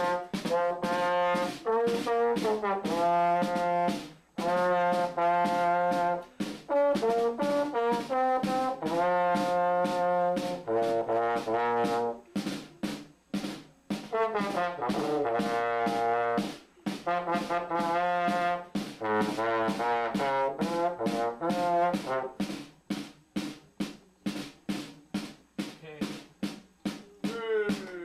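A brass instrument playing a band piece as a single melody line, phrase after phrase with short breaks for breath. Toward the end the notes turn short and detached.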